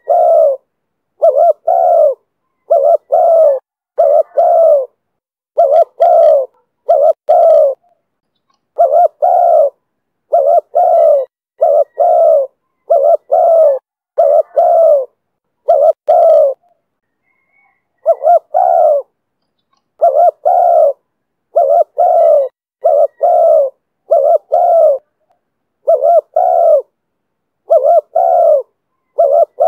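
Spotted dove cooing in the 'thổ thúc bổi' style prized by Vietnamese dove keepers: a long run of loud, short, low coo notes in pairs and small groups, repeating with brief silences between phrases and a longer pause a little past halfway.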